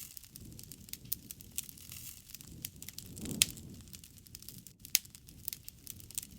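Wood fire crackling, with frequent irregular sharp pops, two louder ones in the middle, over a soft low rush of burning that swells briefly.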